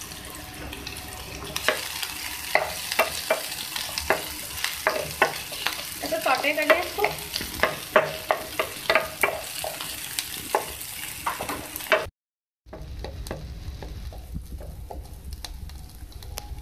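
Chopped onions and green chillies sizzling in oil in a metal pan, stirred with a wooden spatula that knocks and scrapes against the pan many times. About twelve seconds in the sound cuts out for a moment, then the sizzling goes on more softly with fewer knocks.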